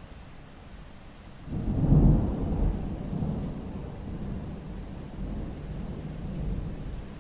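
Thunder rolling over steady rain: a low rumble swells suddenly about a second and a half in, peaks, then rumbles on and slowly fades.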